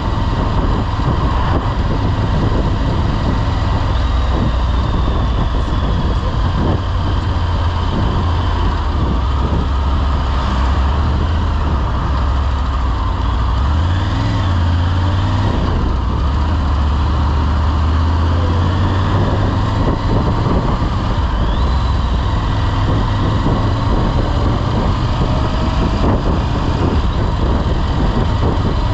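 Motorcycle engine running on the road, heard under steady wind and road noise. The engine note shifts briefly about halfway through, then settles again.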